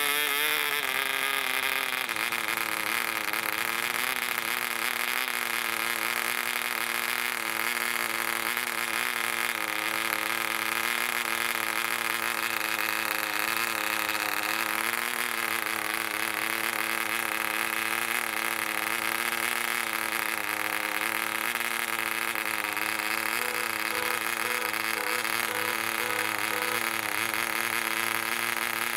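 Barbini B.38 1cc model diesel engine swinging a 7x4 propeller, running at steady speed after its pitch falls and settles in the first couple of seconds. The note wavers slightly: the new engine runs a little unevenly before it is broken in.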